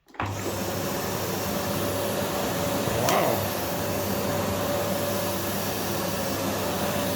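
Philips PowerPro Compact FC9331/09 bagless vacuum cleaner with its 900 W motor switching on abruptly just after the start and then running steadily, with a steady whine over the rush of air.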